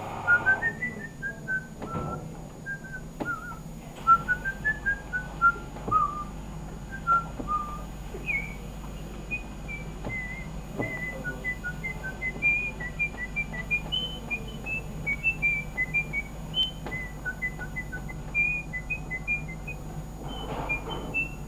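A person whistling a melody in quick, short notes, unaccompanied; the tune climbs higher about eight seconds in. A few faint clicks are heard.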